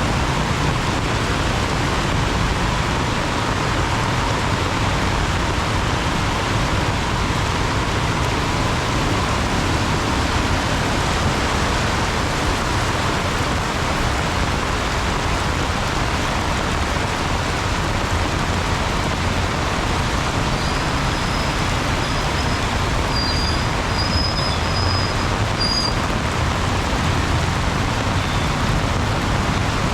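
Heavy tropical downpour: a loud, steady hiss of rain on an umbrella and the flooded road, with road traffic mixed in. A few short high squeals come about two-thirds of the way through.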